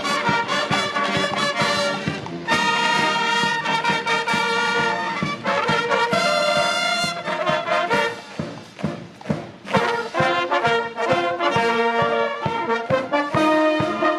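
Military band with bugles playing brass music over steady drum beats. A little past the middle the brass drops back for a couple of seconds, leaving mostly drums, then comes back in full.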